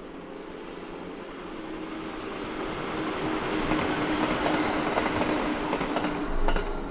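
A train approaching and passing close by: a rush of running noise that grows louder, with a steady hum, and the clickety-clack of wheels over rail joints from about halfway through, loudest near the end.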